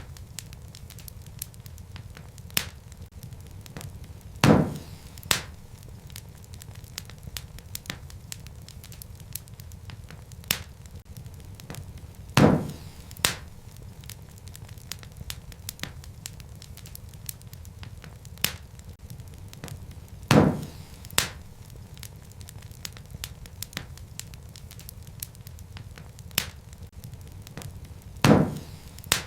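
Wood fire crackling in a fireplace over a steady low rumble, with sharp loud pops of burning logs. The same set of pops comes back every eight seconds, a loud pop followed by a smaller one under a second later, as in a looped recording.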